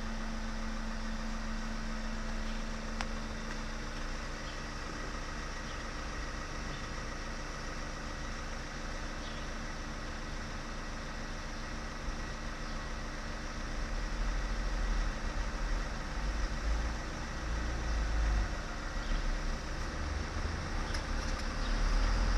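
A vehicle engine idling steadily, with gusts of low rumble from wind on the microphone over the second half.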